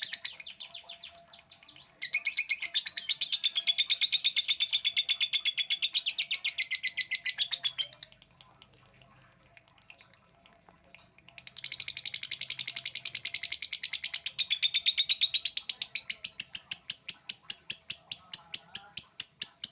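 Lovebird singing its 'ngekek' chatter: long runs of shrill, rapidly repeated notes, about eight a second. There are two long bouts with a pause of about three seconds between them.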